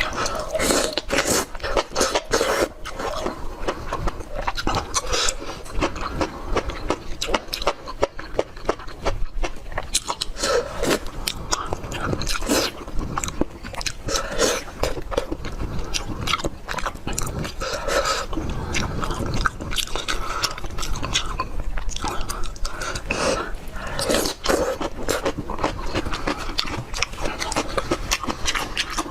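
A person chewing and biting food, with many short irregular wet clicks from the mouth.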